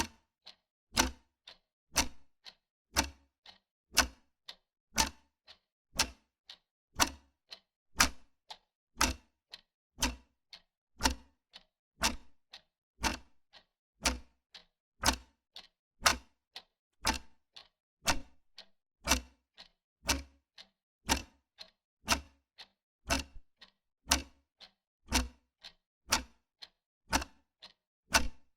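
Wall clock ticking steadily, about two ticks a second, alternating a louder tick and a softer tock.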